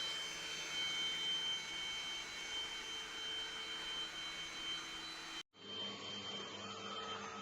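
Russell Taylors V5 cordless vacuum cleaner running: a steady high-pitched motor whine over airflow noise. About two-thirds of the way through it drops out for a moment and comes back duller.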